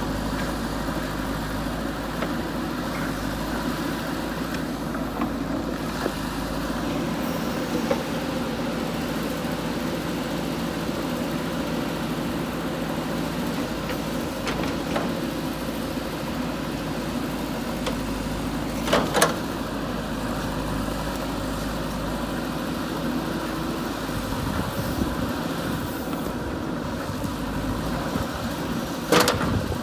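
JCB 3DX backhoe loader's diesel engine running steadily as the machine works, with a few sharp knocks, the loudest about two-thirds of the way through and again near the end.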